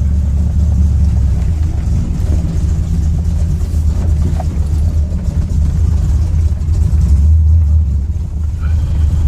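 Truck engine idling steadily with a deep, even hum, heard from inside the cab.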